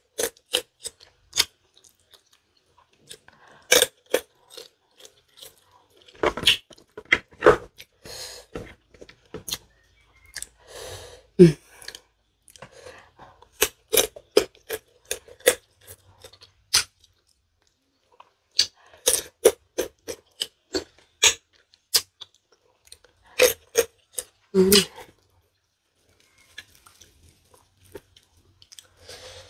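Close-up crunching and chewing of raw green tamarind pods dipped in sauce: sharp, irregular crunches come in clusters with pauses between bites. A short hum is heard twice, about eleven seconds in and again near 25 seconds.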